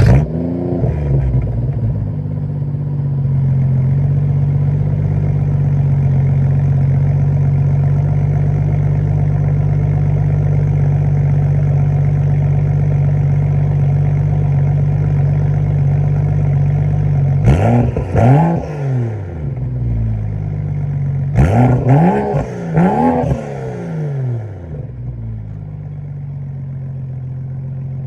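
BMW N55 turbocharged straight-six, fitted with a stage 2 Vargas GC turbo, catless downpipe and muffler delete, starting with a flare of revs and then idling steadily. Past the middle it is revved once, a few seconds later blipped two or three times in quick succession, then it settles back to a lower idle.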